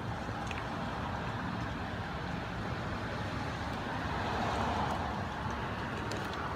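Gusty wind blowing steadily, swelling into a stronger gust about four to five seconds in.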